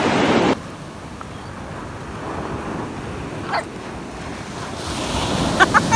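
Wind on the microphone and beach surf that cut off abruptly about half a second in, leaving a quieter background. A single short high squeal follows about 3.5 s in, then a few short high squeaks near the end.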